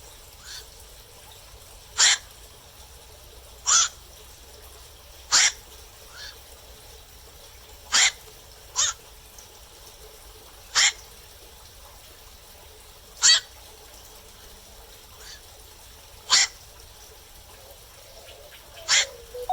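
Black-crowned night heron calling: short, single 'kwak' calls, about nine loud ones spaced one to three seconds apart, with a few fainter calls between them.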